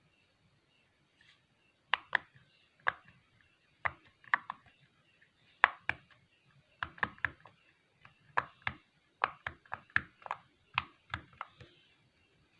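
Silicone pop-it fidget toy being pressed bubble by bubble: about two dozen sharp pops at an uneven pace, starting about two seconds in.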